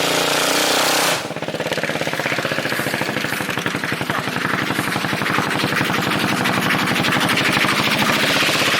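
2009 Yamaha Majesty 400 scooter's single-cylinder engine running through a straight pipe, with a loud, staccato exhaust. About a second in the revs drop, and the engine runs on with a rapid, even firing beat that slowly grows louder.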